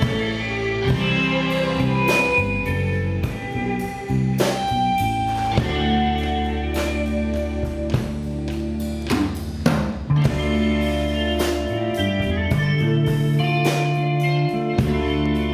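Live rock band playing an instrumental passage: guitars ringing over bass, with regular drum and cymbal hits.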